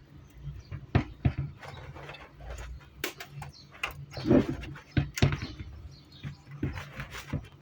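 Irregular clicks, taps and knocks of small hard objects being handled, a few of them louder, over a steady low hum.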